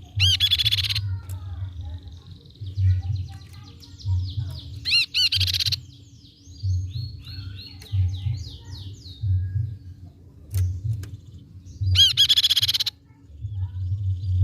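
Crescent-chested babbler (tepus pipi perak) calling: three loud bursts of quick, repeated ringing notes, about a second in, near the middle and near the end, with softer trills between them. A low pulse repeats underneath roughly once a second.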